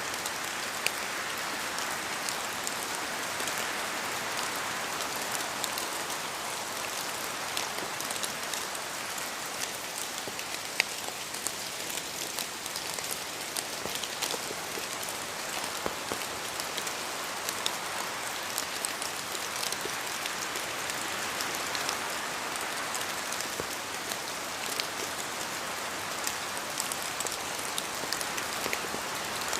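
Steady rain falling in a forest, with many individual drops dripping from the trees and ticking close by, a few of them louder than the rest.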